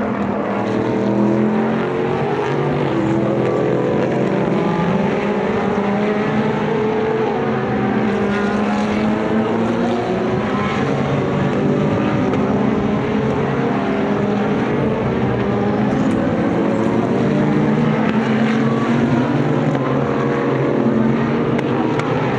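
Several racing car engines running together at the track, loud and continuous. Many engine notes overlap and keep sweeping up and down in pitch as the cars rev and shift.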